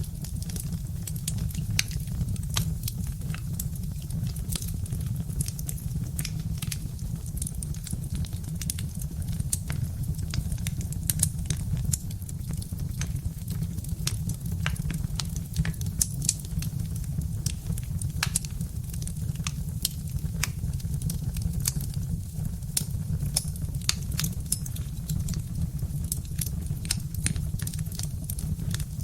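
Birch-log fire crackling, with frequent irregular sharp pops and snaps over a steady low rumble.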